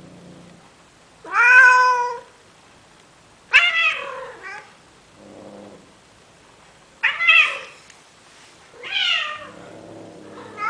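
Male cat courting a female with loud, drawn-out mating meows: four calls a second or two apart, each rising then falling in pitch, with quieter low calls in between.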